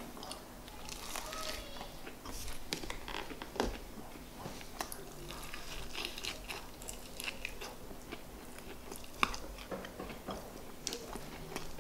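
A person biting and chewing a KFC fried chicken wing up close: scattered crunches, mouth smacks and small clicks of eating.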